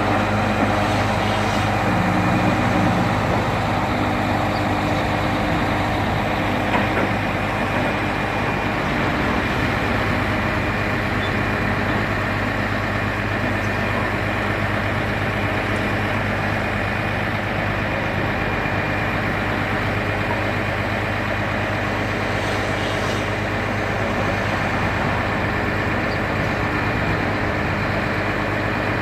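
An engine running steadily at an even speed: a constant low hum with steady tones over it and no revving.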